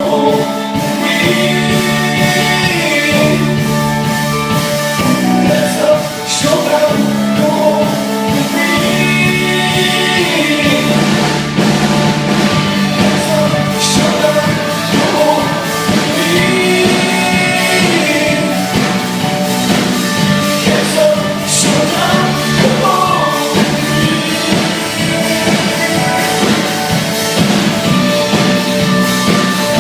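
Live rock band playing at a sound check, with a singer's voice over guitars and drums.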